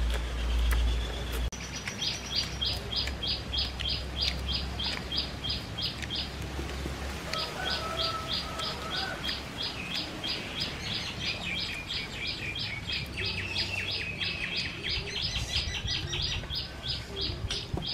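A bird calling a long, fast series of short, high, evenly spaced chirps, about four a second, with one brief pause near the middle. A low rumble in the opening second and a half cuts off abruptly.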